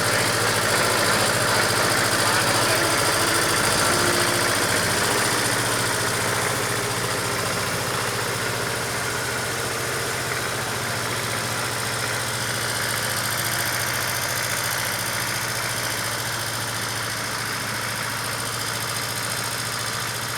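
Old Deutz farm tractor's diesel engine running steadily, getting slightly quieter after about six seconds.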